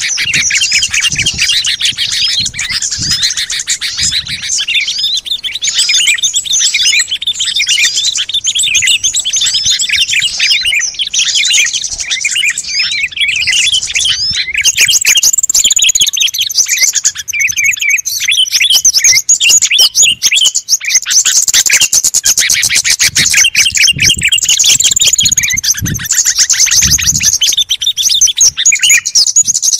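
Bird-lure recording of many small songbirds chirping and twittering together in a dense, overlapping chorus of rapid high calls. About halfway through, the mix changes to brighter, higher calls, with a few soft low thumps underneath.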